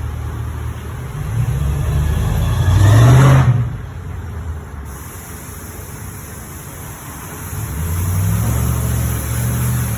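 Motor vehicle engines running: one swells, rising in pitch to a peak about three seconds in, then fades quickly, and another builds up again near the end.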